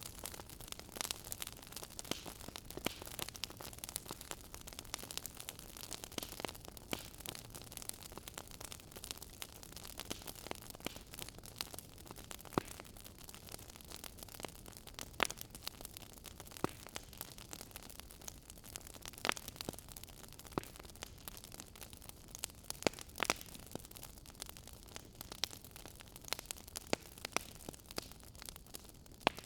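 Wood fire in a fireplace crackling: frequent irregular snaps and a few louder pops over a soft steady hiss.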